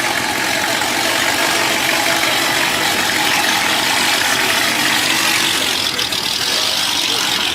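Dodge Hellcat's supercharged 6.2-litre V8 idling loudly and steadily, with a brief dip about six seconds in.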